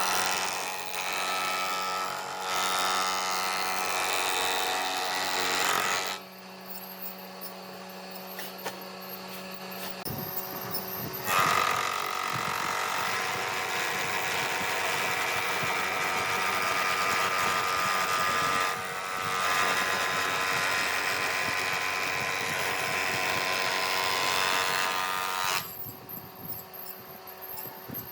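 Electric woodworking machines running and cutting wood, a steady motor hum under spells of louder, hissing cutting noise. It drops to quieter running for a few seconds about a fifth of the way in, surges again and quietens near the end.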